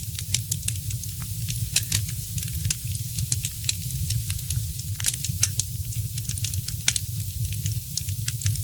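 Wood fire in a fireplace crackling, with many small irregular pops and snaps and a few louder ones, over a steady low rumble of the burning fire.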